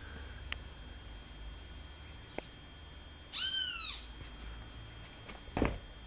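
A single loud call from the bird that wakes the household each morning, rising then falling in pitch over under a second, about halfway through. A few faint clicks, and a sharp knock near the end.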